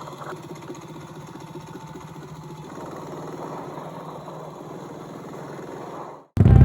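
Yamaha SR400 single-cylinder engine idling steadily through a full megaphone exhaust; it cuts off suddenly near the end.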